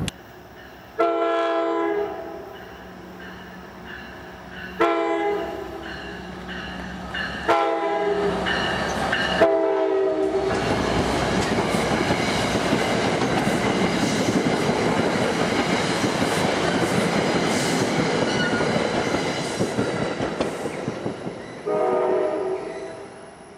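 New Jersey Transit commuter train sounding its multi-chime air horn as it approaches a grade crossing: two long blasts, a short one and a long one, the grade-crossing signal. It then rumbles and clatters past over the rails, and one more horn blast sounds near the end.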